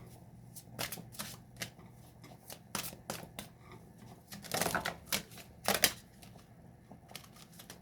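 Tarot cards being handled and shuffled: scattered light clicks of cards, with louder riffles about halfway through.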